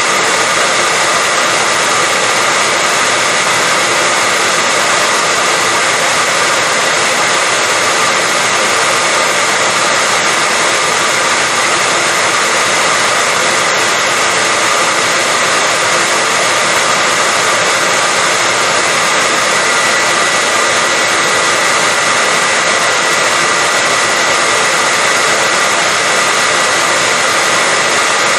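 Hair dryer running steadily at one speed: an even rush of blown air with a steady high whine from its motor and fan.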